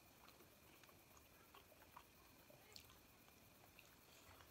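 Near silence with a few faint, scattered clicks and smacks of people chewing and eating.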